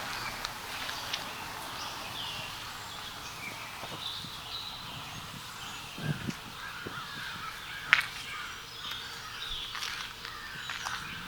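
Wild birds calling and chirping in short, repeated notes. There is a dull thump about six seconds in and a sharp tap about eight seconds in.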